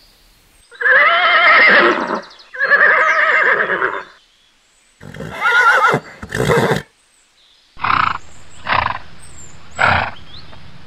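Horse whinnying: two long, wavering neighs, then a shorter call, followed near the end by a few short calls about a second apart.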